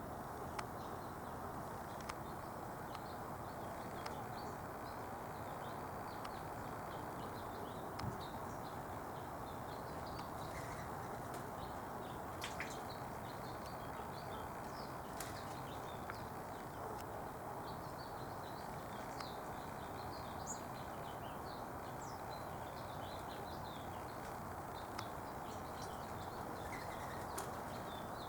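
Small birds chirping in short, scattered high calls over a steady background hiss, with a few faint clicks.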